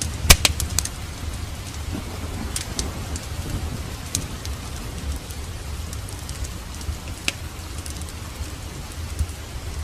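Steady rain with a low rumble under it, mixed with a crackling wood fire in a fireplace: a quick cluster of sharp pops in the first second, then single snaps every second or few.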